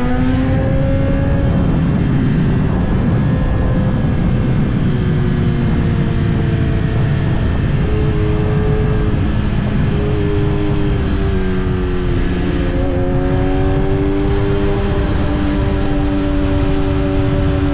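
Kawasaki ZX-10R's inline-four engine under way, with a low rush of wind on the microphone. Revs climb in the first second, then slowly fall for about ten seconds, dip and rise again about twelve seconds in, and hold steady near the end.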